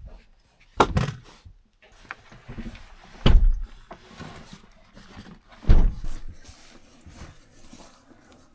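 Three dull, heavy thumps about two and a half seconds apart, with quieter rustling and handling noise between them.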